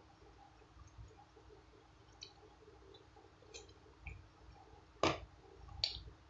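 Quiet mouth sounds of eating soft durian flesh: wet chewing with small clicks, the sharpest and loudest click about five seconds in and another just before the end.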